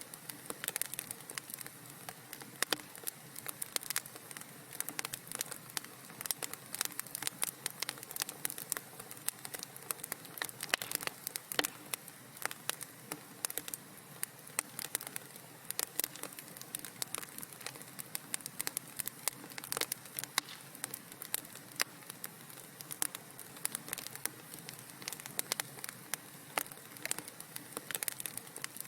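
Wood fire crackling in a fireplace: a steady run of small irregular pops and snaps, several a second, over a soft steady hiss.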